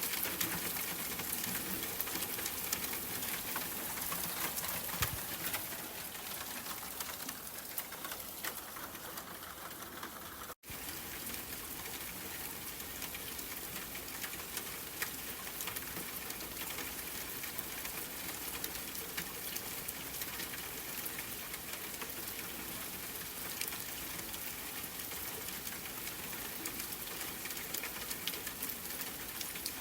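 Steady rain, an even hiss with many fine drop ticks. The sound cuts out for an instant about ten seconds in.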